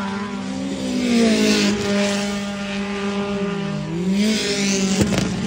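Several racing engines running at once, one holding a steady pitch while others rise and fall as they are revved; one dips and climbs back up near the end.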